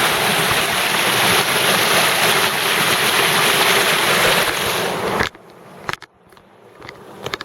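Creek water rushing past a cinder-block dam: a steady, loud rush that cuts off suddenly about five seconds in, leaving quiet with a few faint clicks before the rush builds again at the very end.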